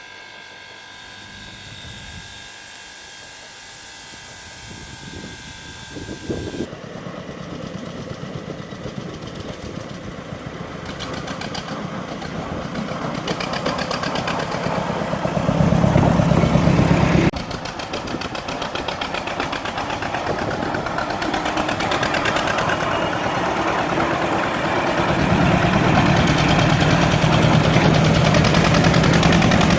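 Narrow-gauge railway locomotive working and drawing closer, growing steadily louder with a fast rhythmic beat and a deep hum. The sound breaks off abruptly twice.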